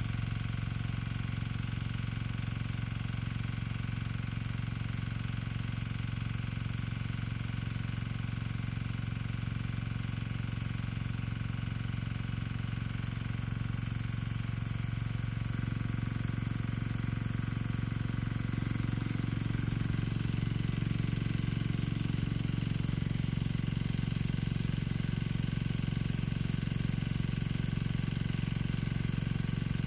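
Engine-driven irrigation pump running steadily while supplying a long-range rain gun sprinkler. From about 15 to 20 seconds in, its note grows a little fuller and louder.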